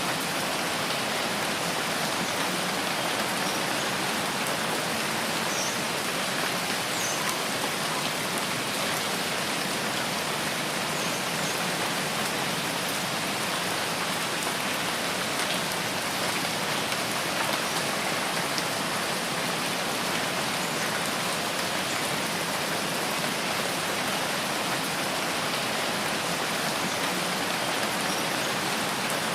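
Steady rain falling in a rainforest: an even, unbroken hiss of many drops.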